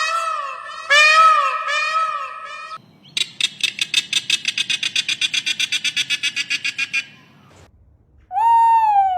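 A run of animal calls: repeated calls that rise and fall in pitch, then a fast rattling trill of about nine pulses a second lasting about four seconds, then one short falling call near the end.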